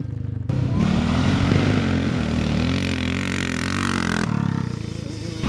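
Vintage scrambler motorcycle engines running and revving, their pitch wavering up and down, with abrupt changes about half a second in and again near the end.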